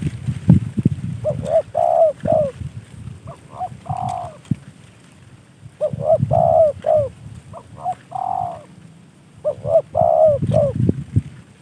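Spotted dove cooing: about five short phrases of a few low, curved coo notes, repeated with short gaps. Low rumbling noise sits under the cooing about a second in and again near the end.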